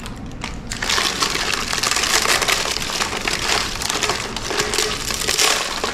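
Cracker-dry dehydrated rice crunching and crackling against its paper liner as it is handled. The dense crackle starts about a second in and keeps going.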